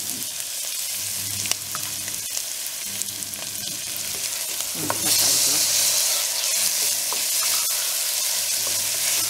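Chopped onions and whole garlic cloves sizzling in hot oil in an aluminium pressure cooker, stirred with a wooden spatula that scrapes and taps against the pot. About five seconds in the sizzling gets suddenly louder as chopped tomatoes go into the hot oil.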